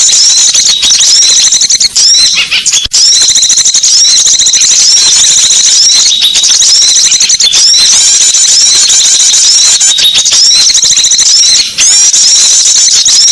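Small songbirds chirping and twittering rapidly and without pause, as played from a bird-lure recording. The calls are high-pitched and densely overlapping.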